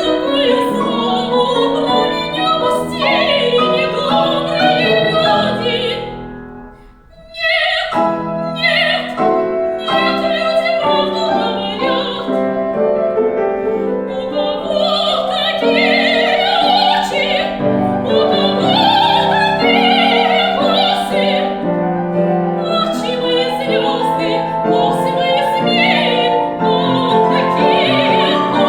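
Soprano singing an opera aria with piano accompaniment. The music falls away to a brief pause about six seconds in, then voice and piano come back in.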